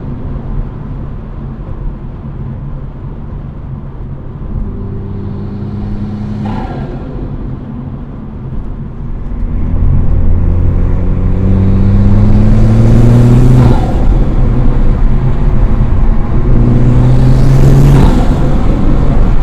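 Toyota Supra's turbocharged engine with an Armaspeed intake, revving up in three pulls, rising in pitch, and loud from about halfway through. Each pull ends with a short turbo flutter as the throttle closes.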